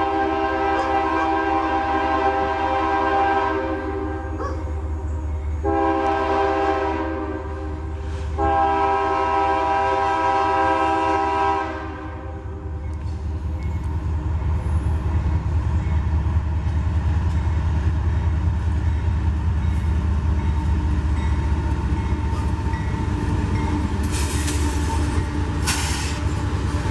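Diesel locomotive's multi-note horn sounding a long, a short and a long blast, then the train rumbling past, growing louder and staying loud, with a few seconds of high hissing near the end.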